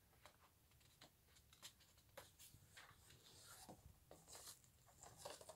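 Near silence with faint rustling and scattered light taps of photo album pages being handled.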